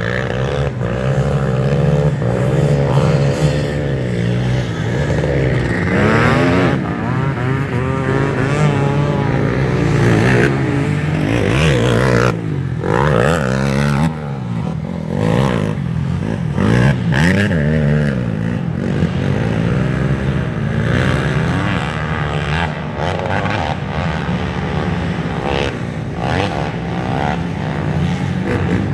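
Several motocross dirt bikes racing on the track, their engines revving up and down in overlapping, continually shifting pitches.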